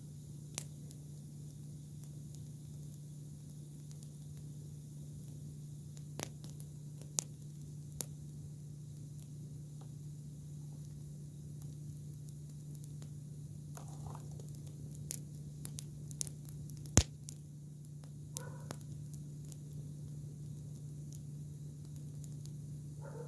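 Campfire of freshly cut, green silkworm thorn branches burning: scattered sharp pops and crackles, the loudest in the latter half, over a steady hiss.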